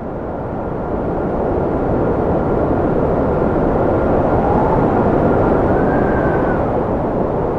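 Cold wind howling: a dense, steady rush with thin whistling tones that hold and then glide up and down. It builds in level over the first couple of seconds.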